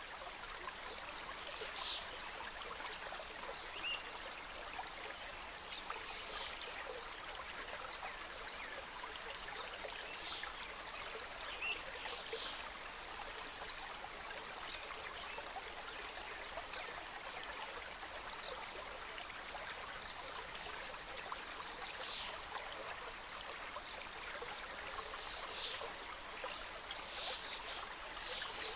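Mountain stream cascading over rocks: a steady rush of flowing water, with brief brighter splashes standing out here and there.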